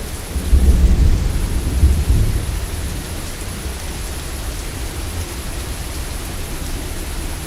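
Heavy rain falling steadily, with a low rumble of thunder that swells about half a second in and fades away after two or three seconds.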